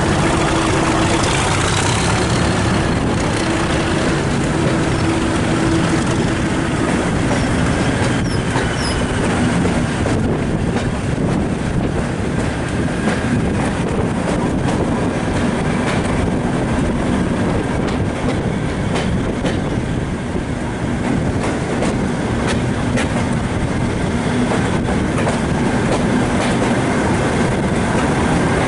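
Moving passenger train hauled by a Class 37 diesel locomotive, heard from an open coach window: a steady rumble of wheels on rail with repeated clickety-clack of rail joints, and a low engine drone underneath.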